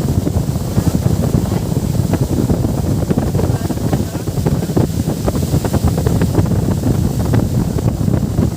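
Wind buffeting the microphone on a moving boat, a dense, loud rumble with irregular gusty thumps over the rush of water.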